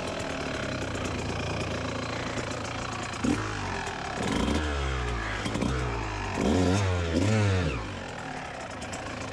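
Kawasaki KX125 two-stroke dirt-bike engine running at a low idle, blipped in short rising-and-falling bursts of throttle about four and a half seconds in and again around seven seconds.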